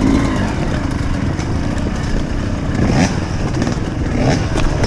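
Off-road motorcycle engine running under load during a cross-country race, the revs rising in short bursts twice, about three and four seconds in.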